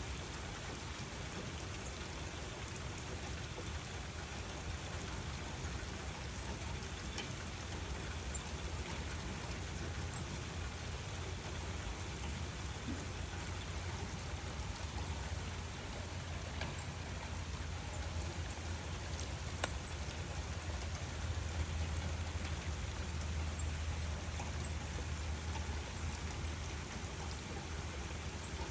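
Steady rain falling, with a few single drops ticking and a steady low rumble underneath.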